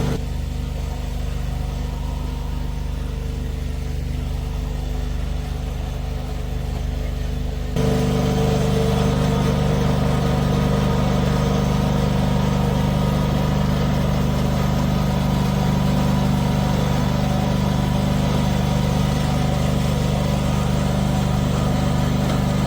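An engine running steadily at idle, close by, with a low, even hum; about eight seconds in it gets louder and stays at that higher level.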